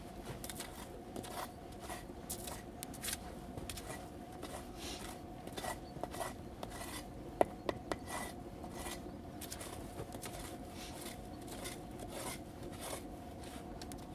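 Wood fire burning an old linden stump, crackling with irregular small pops, and a couple of sharper snaps about halfway through.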